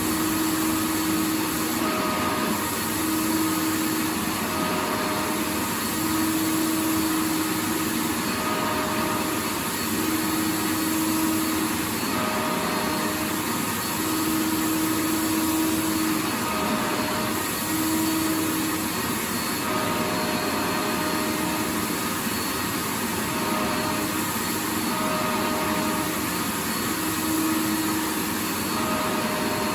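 Vacuum cleaner running steadily: an even rushing of air with a motor hum whose pitch drops in and out every second or two.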